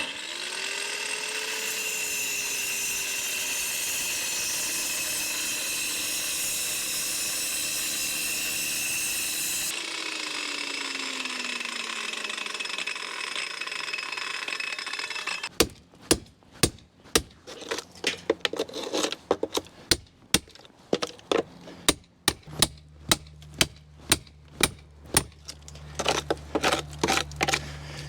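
Angle grinder fitted with a stone-cutting disc spinning up and cutting into concrete for about ten seconds, then winding down with a falling whine. After that comes a run of sharp knocks, about two a second, as the loosened concrete is chipped away.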